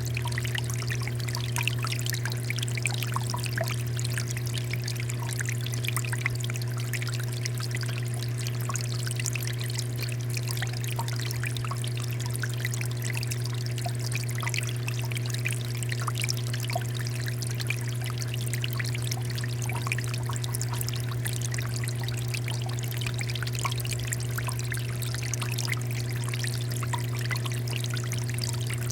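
Water fountain splashing and trickling steadily, with many small droplet patters, over a steady low hum.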